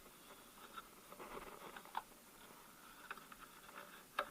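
Faint rustling and light ticks of hands working a new timing belt onto the engine's pulleys, with a sharp click about two seconds in and a louder one near the end.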